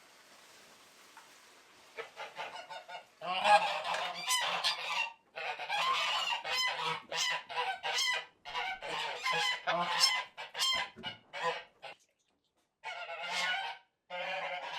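Domestic geese honking in a dense, rapid run of calls that starts about two seconds in, after a faint hiss, with a couple of short breaks near the end.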